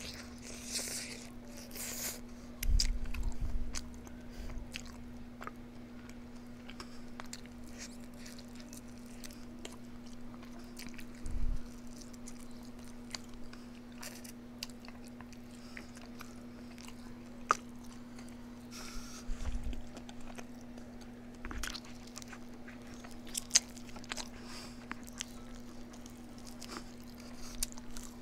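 Close-up eating sounds: a person chewing and biting, with many small scattered clicks and occasional dull thumps. A steady faint hum runs underneath.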